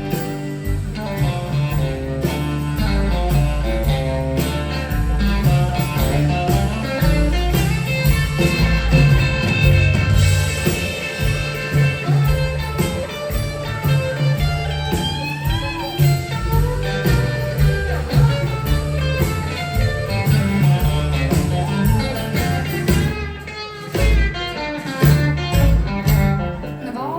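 Live band playing an instrumental stretch of a country song, guitar to the fore over a steady bass line. The music drops back briefly about three quarters of the way through.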